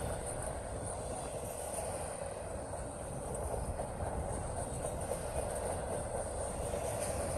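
Double-stack intermodal freight train of container-loaded well cars rolling past steadily, a continuous noise of steel wheels on rail.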